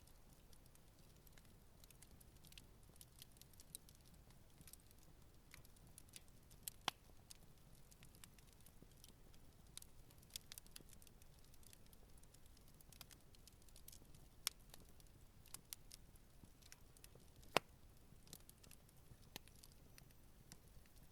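Campfire crackling softly: scattered faint ticks and snaps, with two sharper pops, one about a third of the way in and a louder one past the three-quarter mark.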